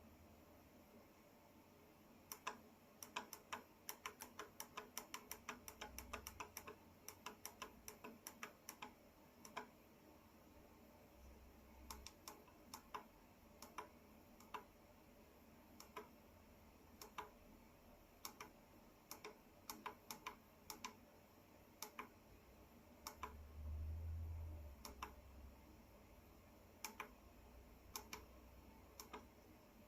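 Quiet, irregular sharp clicks: quick runs of several a second at first, then single clicks a second or more apart. A brief low rumble comes about 24 seconds in.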